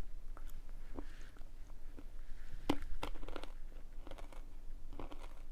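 Dry-roasted chickpea snacks being bitten and chewed close to the microphone: a string of sharp crunches, the loudest a little under three seconds in.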